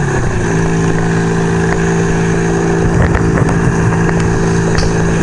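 1975 Kawasaki KZ400 cafe racer's parallel-twin engine running at a steady pitch as the bike cruises, with wind noise on the microphone.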